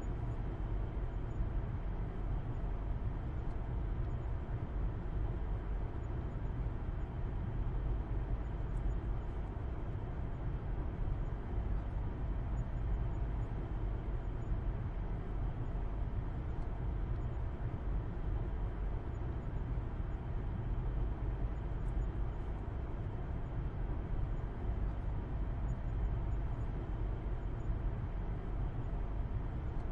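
Steady low rumble of a car being driven, heard from inside the cabin: engine hum and road noise at an even cruising pace.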